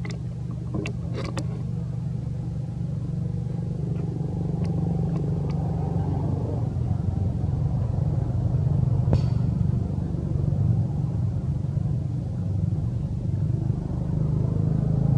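A motor vehicle engine running with a steady low rumble, with a few faint clicks over it.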